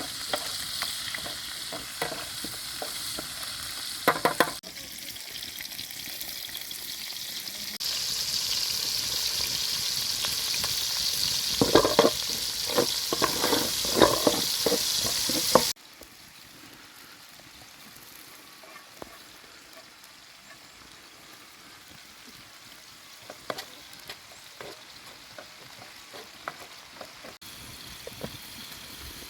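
Food frying in a pan, a steady sizzle with the scrape and knock of a utensil stirring it, growing louder about eight seconds in. About halfway through it cuts off suddenly to a much quieter stretch with only a few light clicks.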